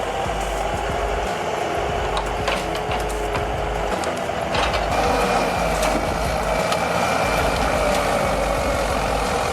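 Heavy diesel machinery running under load, a steady drone whose pitch drifts slowly, with a couple of sharp metallic knocks about two and a half and four and a half seconds in.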